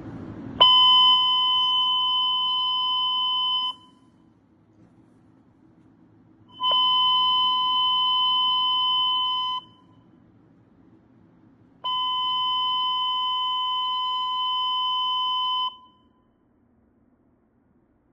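Three long, steady electronic alert tones from a fire dispatch radio, each lasting about three to four seconds with pauses of about three seconds between, over a faint low radio hiss: the attention tones that open a dispatcher's announcement.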